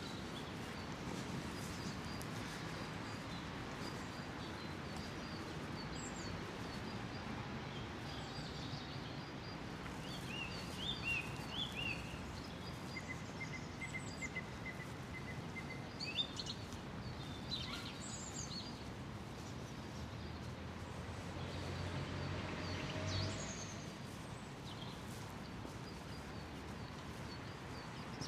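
Steady rush of water from a waterfall, with songbirds chirping over it and a short rapid trill about halfway through.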